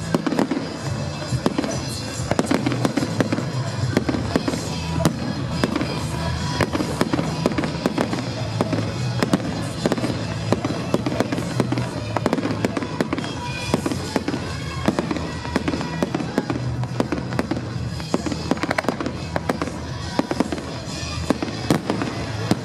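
Fireworks display going off in a continuous barrage of many rapid bangs and crackles.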